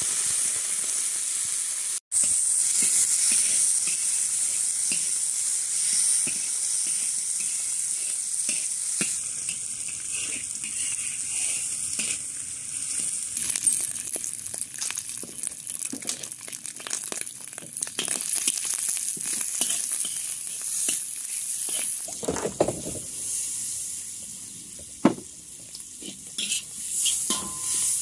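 Food sizzling in hot oil in a large wok, hissing hardest just after it goes in and easing off later, while a metal spatula stirs and scrapes against the wok. A sharp clank sounds near the end.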